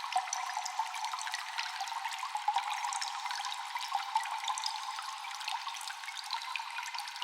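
Cave ambience of water dripping, many quick drips falling over a constant trickling hiss, with echoing drops.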